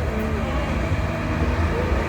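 Competition pulling tractor's engine running hard and steady under load during a pull.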